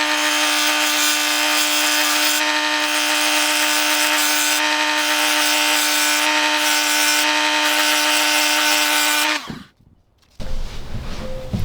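A power tool runs at steady speed with a steady hum and a rasping, scrubbing noise of metal being worked, as in cleaning or grinding. About nine seconds in it shuts off and its pitch drops as it stops. About a second later a different, uneven sound begins.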